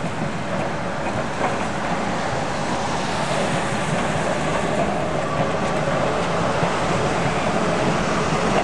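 Vintage tram running along its track: a steady rumble of wheels on rail and running gear that grows slowly louder, with a faint whine in the middle and a few clicks near the end.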